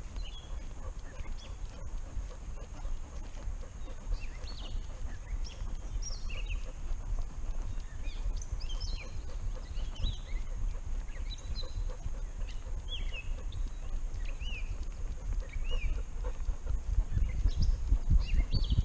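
Small birds chirping, many short quick notes scattered throughout, over a steady low rumble that grows louder near the end.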